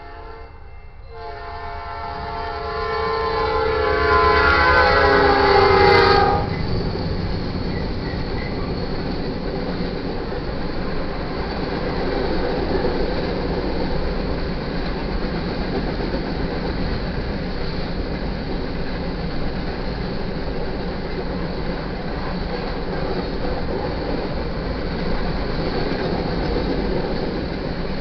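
Freight-train locomotive horn blowing for a grade crossing, growing louder as the GE Dash 9-44CW locomotives close in, then cutting off sharply about six seconds in. The steady rumble of the diesel locomotives and the rolling train going through the crossing follows.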